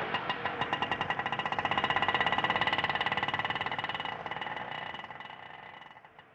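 Auto rickshaw sound: a fast, even mechanical rattle of about a dozen strokes a second with a ringing metallic tone. It swells over the first couple of seconds, then fades away steadily until it is faint.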